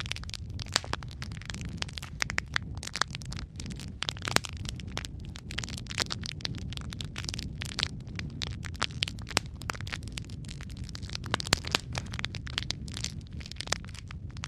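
Wood fire crackling in a fireplace: a steady low rumble of flames under frequent, irregular sharp pops and snaps.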